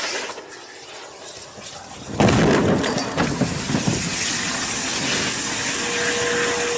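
Failed launch of a small liquid-fuelled rocket: a sudden loud rushing roar starts about two seconds in and goes on as a steady hiss.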